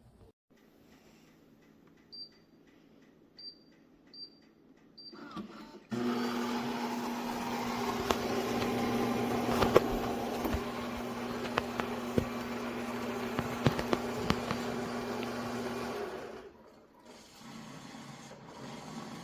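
Philips Series 2300 fully automatic espresso machine: a few short high beeps, then about six seconds in a loud steady motor run with a hum and scattered crackles that lasts about ten seconds and cuts off, followed by a quieter hum.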